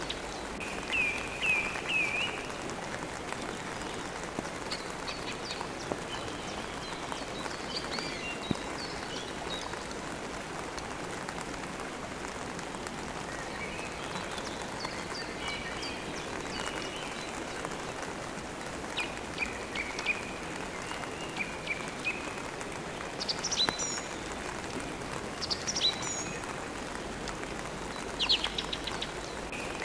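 Steady rain falling, with songbirds chirping and trilling in short bursts throughout.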